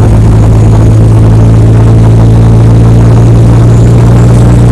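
Heavy truck engine running steadily, a loud constant low drone with no change in pitch.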